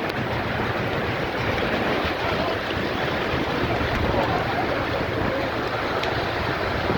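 Strong wind rushing and buffeting the microphone in a steady, loud roar of noise.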